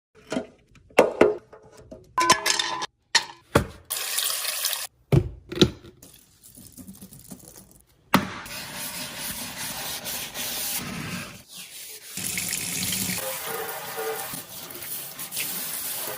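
A run of sharp clicks and knocks, like items or containers being handled and set down. About eight seconds in, water starts running from a tap into a sink and keeps running steadily.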